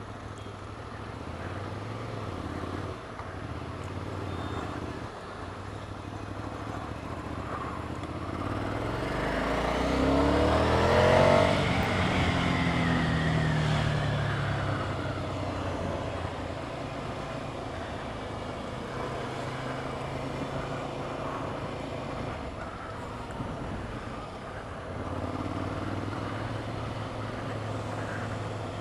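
Road traffic noise with a steady low engine hum. From about eight to fourteen seconds in, a louder vehicle engine rises and then falls in pitch as it passes close by.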